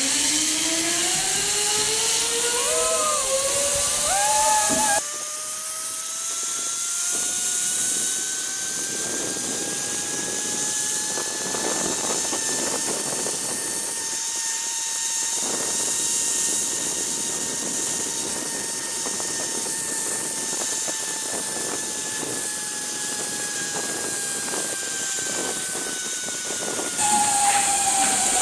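Zipline trolley pulleys whining along the steel cable. The pitch rises over the first five seconds as the rider gathers speed, holds high, then falls near the end as the trolley slows. Wind hiss rushes over the microphone throughout.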